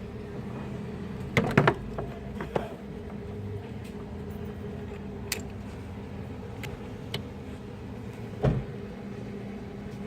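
A few sharp clicks and knocks, bunched about one and a half seconds in with a louder single knock near the end, over a steady low hum.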